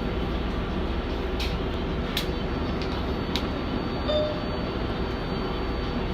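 R188 subway train running along the track, heard from inside the car: a steady rumble of wheels and motors, with a few sharp clicks in the first half.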